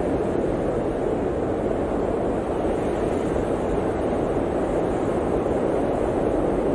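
Blizzard wind blowing steadily: an even, low rushing noise with no distinct gusts.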